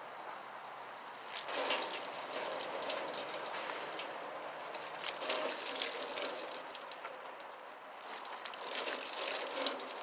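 Soapy water being sloshed and wiped onto a grill with a wet rag: a crackly, splashing wet sound that starts about a second and a half in, eases briefly near the end and picks up again.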